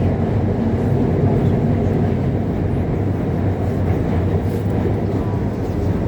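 Guangzhou Metro Line 5 linear-motor train running between stations, heard from inside the carriage: a steady rumble with a low hum.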